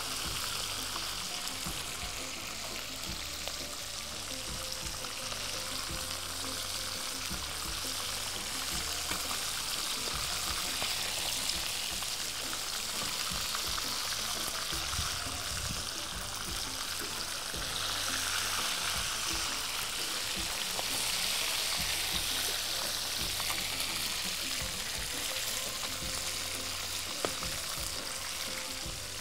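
Chicken pieces shallow-frying in hot oil in an open pan, a steady sizzle. They are being browned only lightly, just until they take on a little colour.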